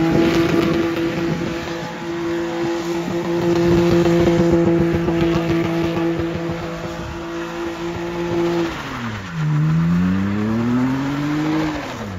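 Drift car's engine held at steady high revs for about nine seconds while it spins its rear tyres through a donut, with tyre noise underneath. Then the revs drop, climb again and fall away near the end.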